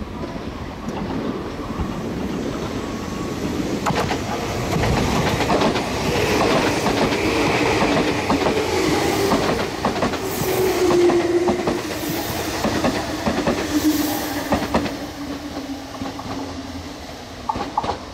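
Meitetsu Panorama Super electric train pulling in close by, its wheels clacking over rail joints. A low whine sinks slowly in pitch as the train slows to a stop, and the sound eases near the end.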